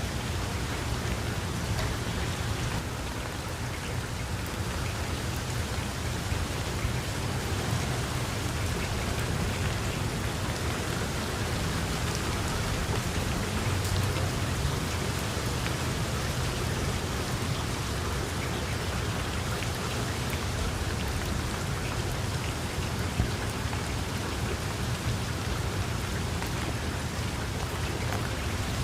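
Heavy rain falling steadily: a dense, even hiss of drops with a low rumble underneath.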